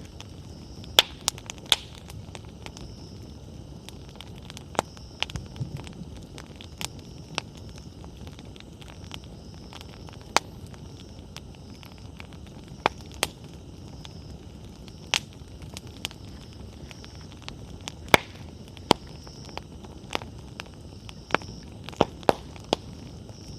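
Wood campfire burning: sharp, irregular pops and crackles from the burning firewood over a steady low rush of flame.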